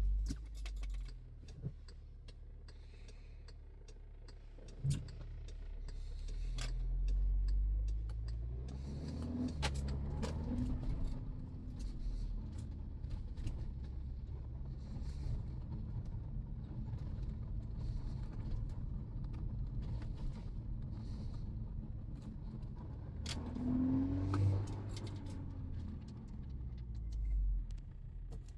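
A car's engine under way, rising in pitch as it accelerates and dropping back twice as it shifts gear, with a steady low drone in between. A few short sharp clicks are scattered through it.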